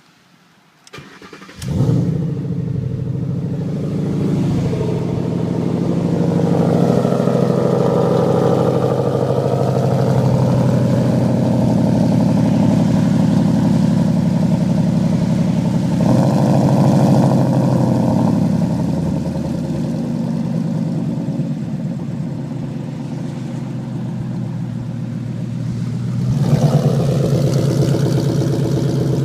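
2011 Ford Mustang GT's 5.0 V8, breathing through an off-road X-pipe and a Magnaflow cat-back exhaust, cranks with a click or two and starts about two seconds in. It then idles steadily. The engine note steps up briefly around the middle and again near the end.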